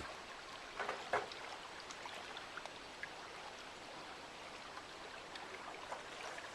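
Faint steady lapping of lake water, with a couple of light knocks about a second in.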